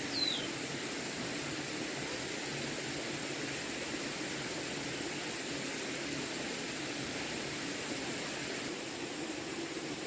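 Steady rushing background noise, even throughout, with one short falling whistle just after the start.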